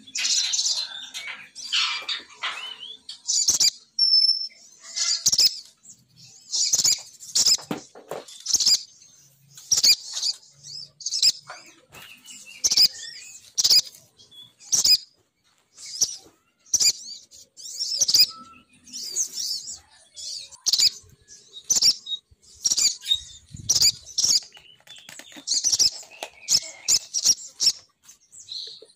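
Female sogon bird calls played as a bird-catching lure: short bursts of high, chattering notes, about one burst a second.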